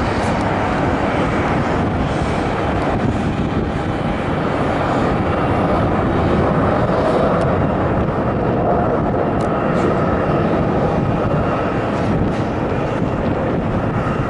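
Jet airliner engines running: a steady, loud rush of jet noise with a faint whine over it.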